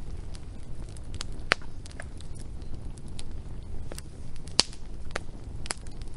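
Wood fire crackling, with irregular sharp pops over a low steady rumble; two pops, about a second and a half in and past four and a half seconds, are the loudest.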